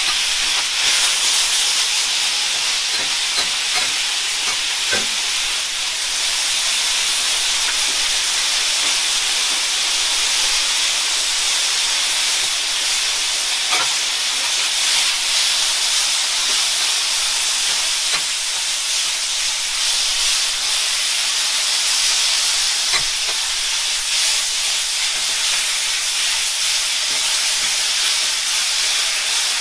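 Pork, kimchi and vegetables sizzling on a hot flat steel teppan griddle, a steady hiss of frying, with a few faint clicks.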